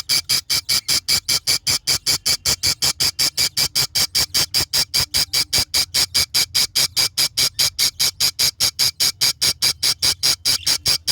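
A bird calling in a fast, even series of sharp, high-pitched notes, about five a second, without a break.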